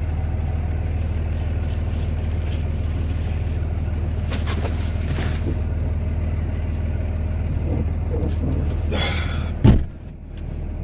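Steady low drone of a Cummins diesel pickup working in snow, heard from inside the cab. Near the end a single loud thump, after which the drone drops away.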